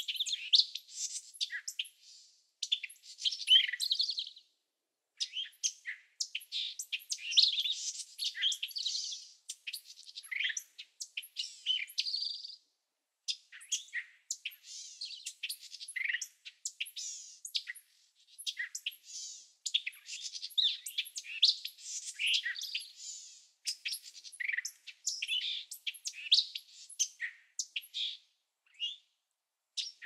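Small birds chirping and twittering, many short high calls overlapping, broken by a few brief pauses.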